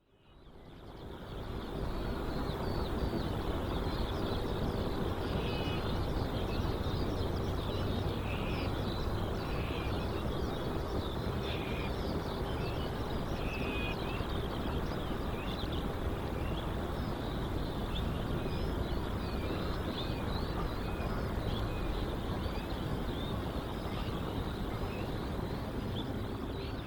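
Steady outdoor rumble with a thin high whine, and many small birds chirping throughout; the sound fades in at the start and fades out at the end.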